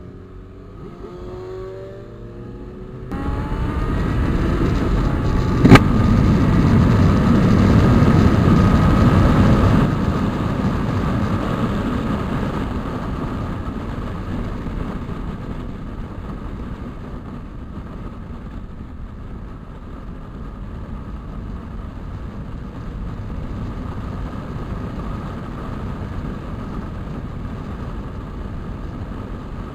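Motorcycle ridden on the road: the engine revs up with a rising pitch, then about three seconds in a loud rushing noise sets in and slowly eases to a steady run. A sharp click comes about six seconds in.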